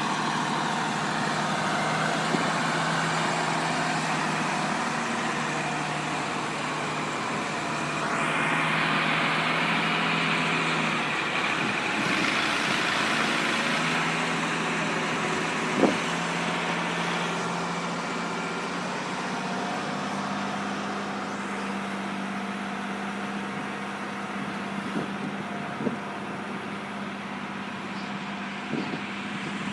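A heavy truck engine running steadily. About eight seconds in, a louder hissing rush sets in and fades away after several seconds, and a few short knocks come later.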